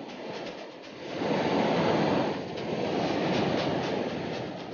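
Rushing water from a waterfall and its pool, a dense steady roar that grows louder about a second in.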